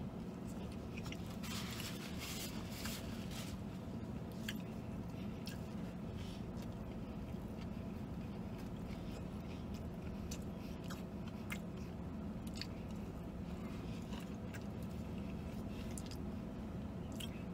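A man chewing a mouthful of fried chicken sandwich, with wet smacking and many small scattered clicks of the mouth, over a steady low hum.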